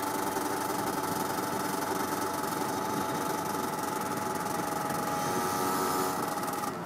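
Derbi Senda two-stroke single with an 80cc top-end kit running at steady revs while the motorcycle cruises, with wind rush on the helmet microphone. The engine note falls away right at the end.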